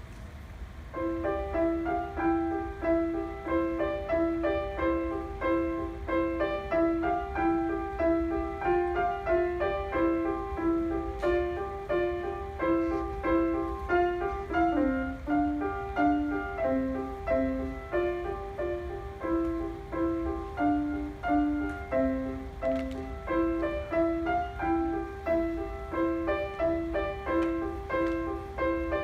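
Piano played by a student: a piece starts about a second in and goes on at a steady, even pace, with a moving upper melody over repeated lower notes.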